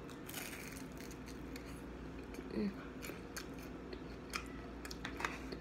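A crisp fried spring roll being bitten and chewed close to the microphone: scattered short crunches and mouth clicks throughout.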